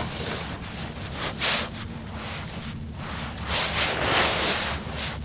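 Wind buffeting the microphone in gusts, over a low steady hum.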